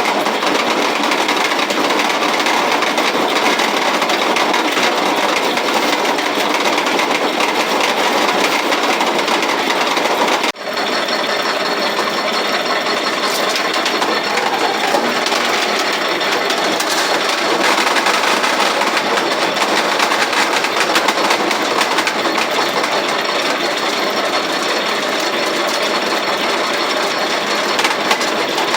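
Antique grain roller mill running, its rollers crushing grain with a loud, steady mechanical clatter. The noise breaks off for an instant about ten seconds in, then goes on unchanged.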